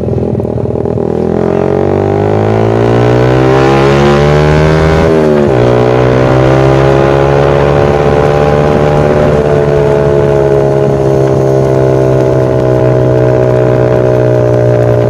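Yamaha Vixion's single-cylinder engine through a Kou Mahachai racing exhaust, accelerating with rising pitch, dropping briefly at a gear change about five seconds in, then pulling steadily at higher revs.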